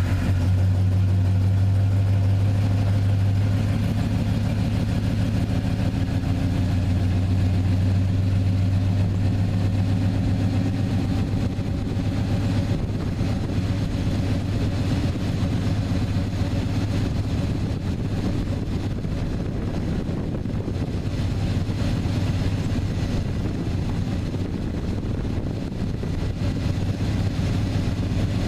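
A 327,000-mile Chevy TBI 350 V8 idling steadily in the first half-minute after a cold start at about 11°F. It was started cleanly after sitting for days, and the idle grows a little quieter after about ten seconds.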